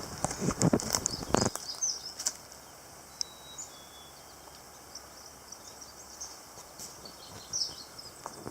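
Small birds chirping with short high calls scattered through a quiet outdoor hush, after a second and a half of rustling and crunching at the start.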